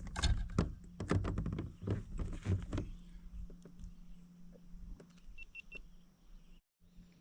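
Quick run of knocks and clatter from handling a fish and lure in a plastic kayak, dense for about three seconds, then a few scattered ticks. Three quick high beeps come about halfway through.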